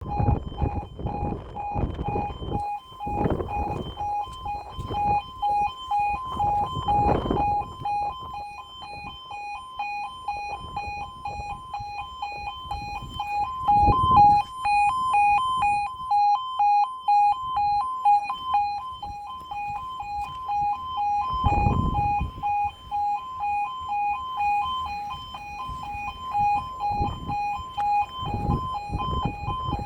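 Level crossing warning alarm sounding: an electronic two-tone alarm pulsing rapidly back and forth between two pitches. Irregular low rumbling comes and goes under it, loudest about fourteen seconds in.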